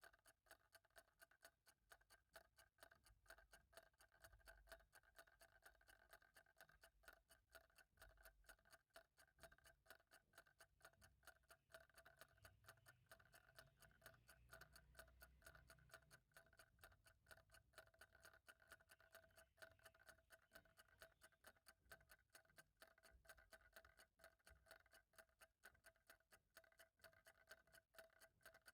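Clock ticking steadily and faintly, with a faint steady tone beneath the ticks.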